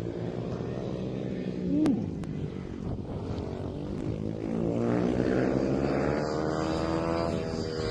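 Several 110cc mini racing bikes running on the track together, their engines' pitches rising and falling as riders open and close the throttle, swelling as the pack draws closer near the end.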